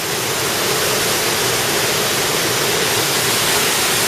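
Steady rush of fast-flowing water, a waterfall or river cascade close by.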